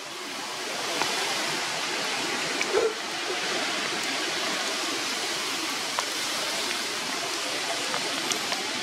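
Steady rain falling on forest foliage, an even hiss with a few light ticks of drops and a brief soft knock about three seconds in.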